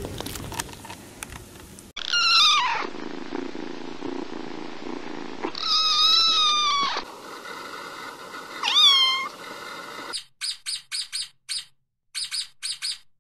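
A very young kitten meowing three times in high, thin cries: the first falls in pitch, the second is long, and the third rises and falls. Near the end comes a quick run of short, clipped sounds, about six a second.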